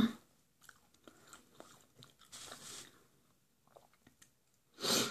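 A person chewing food, with faint wet mouth clicks and a soft noisy patch about two and a half seconds in, then a short, louder rush of noise near the end.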